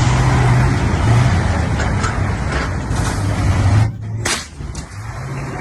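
Heavy truck on the road: a steady low engine hum under loud road rush. It drops off abruptly just before four seconds, and a short sharp burst of noise follows about half a second later.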